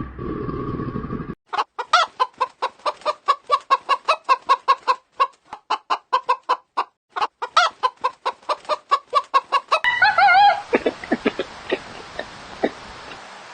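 Chicken clucking in a fast run of short clucks, about four or five a second, ending in a brief wavering call. A low rumbling sound fills the first second or so before the clucking starts.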